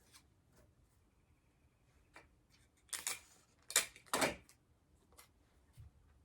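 Paper and tape being handled: short crackly rustles, three of them close together around three to four seconds in, with a few small clicks before and after.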